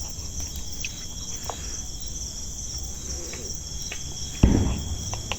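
Crickets chirring steadily in a high, pulsing band, with a few faint scattered clicks and one louder low thump about four and a half seconds in.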